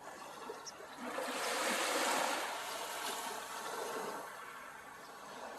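Sea waves breaking and washing up the beach: a wave of surf swells about a second in and slowly eases off toward the end.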